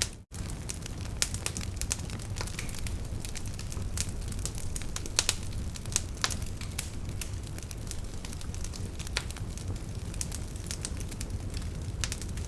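Wood fire crackling: irregular sharp pops and snaps over a steady low rumble of the flames. The sound cuts out completely for a moment just after the start.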